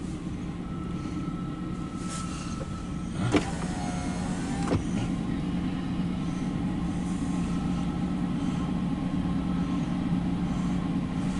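CSX diesel locomotives working hard to lift a loaded autorack train up a grade, a steady low engine drone that slowly builds. Their wheels are slipping for lack of grip on the rail, with a thin whine, then a couple of sharp knocks and gliding squeals about three to five seconds in.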